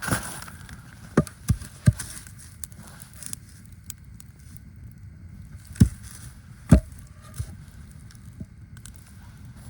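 About six sharp knocks or snaps at irregular intervals, over a steady low rumbling noise.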